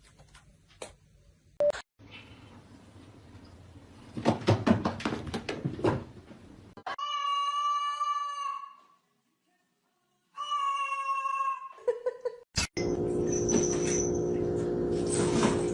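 A domestic cat meowing twice: two long, drawn-out meows a couple of seconds apart, preceded by a flurry of knocks and clicks.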